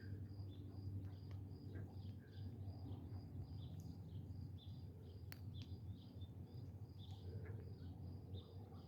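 Ducklings peeping: a faint, steady run of short, high, falling peeps, about two or three a second, over a low background hum.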